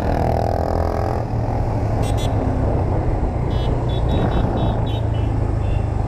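Motorcycle riding in road traffic: a steady low engine and wind rumble. A pitched tone sounds in the first second, and a run of short high beeps comes around the middle.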